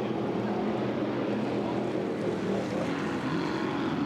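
Racing boat engine running steadily at an even pitch.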